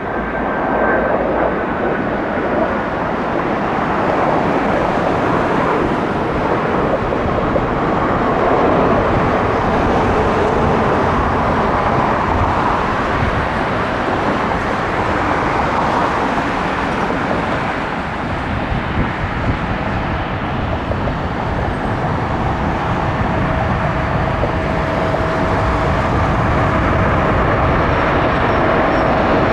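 Jet airliner engine noise from an aircraft nearby: a steady, loud rush that swells and eases slowly. A faint steady whine comes in about two-thirds of the way through.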